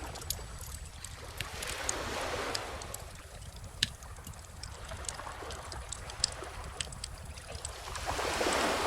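Gentle ocean waves washing ashore in slow swells, one about two seconds in and another near the end. Over them a wood fire crackles with scattered sharp pops, two of them louder than the rest.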